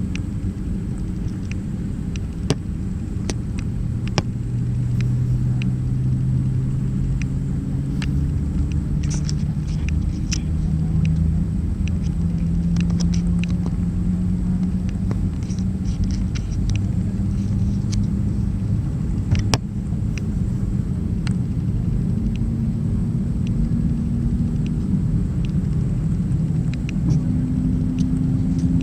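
Steady low rumble of an Airbus A319's engines and rolling airframe heard inside the cabin while taxiing, with an engine tone slowly rising in pitch. Scattered light clicks and rattles come through on top.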